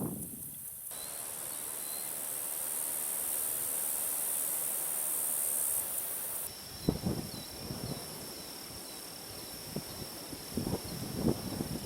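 Insects calling: a high buzz that gives way, about six and a half seconds in, to a steady high trill with short chirps repeating. A few soft knocks come near the end.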